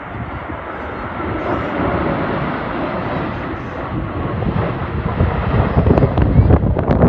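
Jet airliner on its landing approach, the steady rush of its engines mixed with heavy wind buffeting on the phone's microphone; the gusts grow stronger and choppier near the end.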